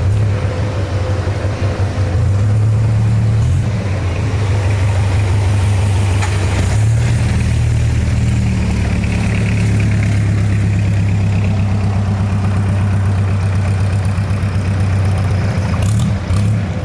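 Engine of a small motorboat running steadily, a loud low hum, with a short dip near the end.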